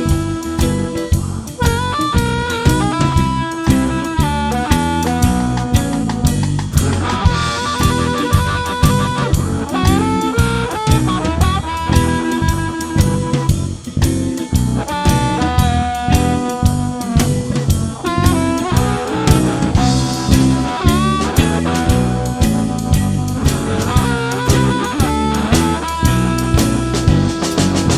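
Blues-rock band playing an instrumental break: drum kit keeping a steady beat, bass and guitar underneath, and a lead melody line of held, bending notes on top, with no singing.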